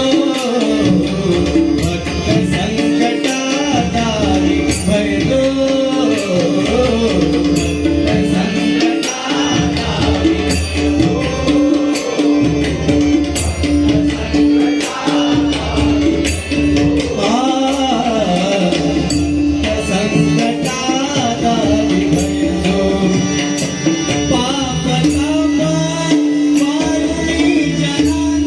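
Marathi abhang, a devotional song, sung by a male voice with a hand drum and small cymbals keeping a steady beat.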